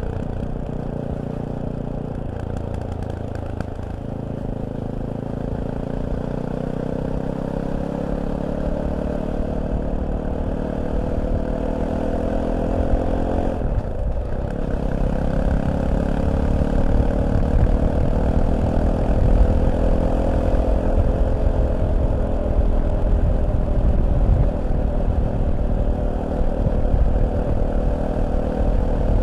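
Fantic Caballero 500's single-cylinder engine pulling as the motorcycle accelerates, its pitch rising, dropping briefly at a gear change about halfway through, then climbing again. Wind rumble grows louder as the speed builds.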